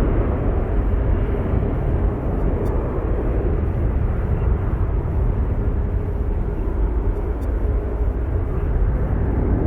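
Jet aircraft engines running with a steady deep rumble and a faint steady hum.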